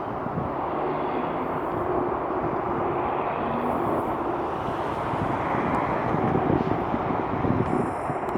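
Jet airliner engines heard across an airfield, a steady rumble with faint tones drifting under it.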